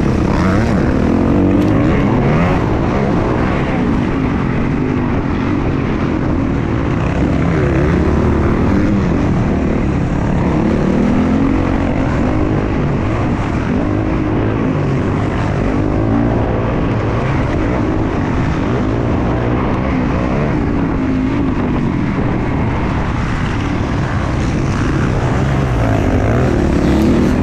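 Motocross dirt bike engine running hard, revving up and down over and over as the throttle is opened and closed.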